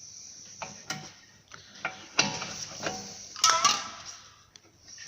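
Irregular metallic clicks and clinks of hand tools and bolts while suspension arms are refitted. The loudest is a sharp clink with a short ring about three and a half seconds in.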